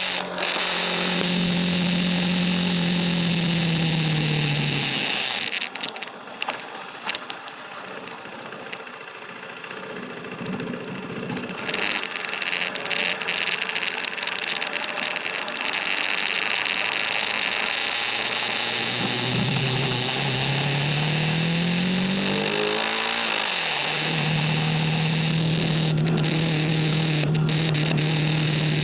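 KTM RC 390 single-cylinder engine at steady cruise, rolling off about four seconds in so its note falls and the bike runs quieter for several seconds with scattered clicks. Near the end it accelerates with a rising note, drops sharply as it shifts up, and settles back to a steady cruise.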